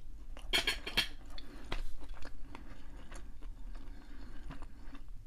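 A person chewing food, with small wet mouth clicks throughout and a brief louder noise about half a second to a second in.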